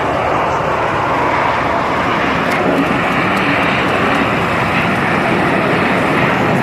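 Fixed-wing aircraft engine noise at an air show: a loud, steady rush of engine sound with no breaks.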